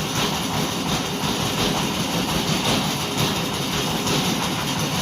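An engine running steadily with a constant rattling mechanical rumble.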